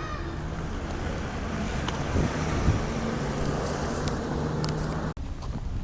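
Steady outdoor vehicle noise with a low engine hum, which breaks off abruptly about five seconds in.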